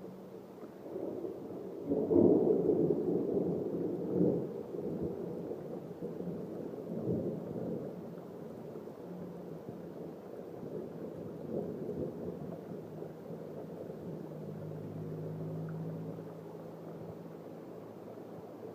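A thunderclap's long rolling rumble, swelling about two seconds in and fading gradually over the next ten seconds or so.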